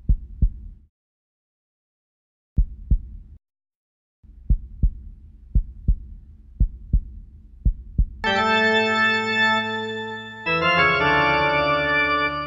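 Heartbeat sound effect: low double thumps, lub-dub, at first with long gaps and then a steady beat about once a second. About eight seconds in, a loud held organ chord comes in, moving to a new chord about two seconds later.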